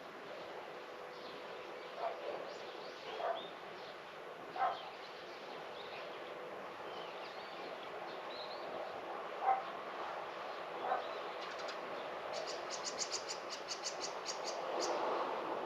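Birds chirping, with a dog barking five times, singly and spaced out. Near the end comes a rapid high trill of ticks, about eight a second, lasting a couple of seconds.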